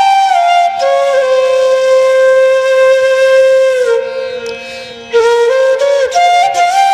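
Background music: a solo flute melody with a long held note that fades about four seconds in, then picks up again a second later.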